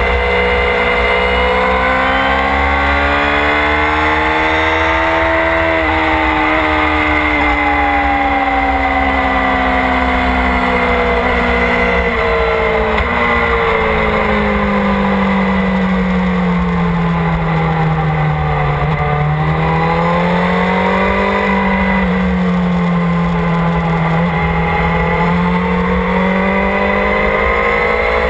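Motorcycle engine running hard, recorded from an onboard camera, its pitch climbing and dropping slowly over several seconds at a time as the bike works around a track. A steady low rumble of wind runs underneath.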